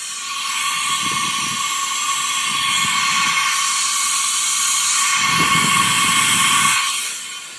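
Compressed shop air hissing steadily with a whistling tone as it escapes from the high-pressure oil system of a 2006 Ford 6.0L Power Stroke diesel, fed in through the IPR valve test port. It leaks out both cylinder heads and the crankcase ventilation, a sign of an internal high-pressure oil leak that the mechanic puts down to a failed STC fitting. The hiss cuts off about seven seconds in.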